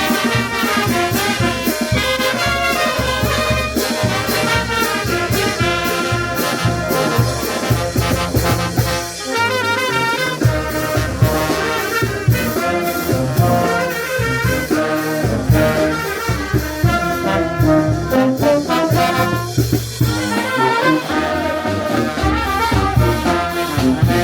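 Brass band playing a lively tune, with trumpets and trombones carrying the melody over a steady beat.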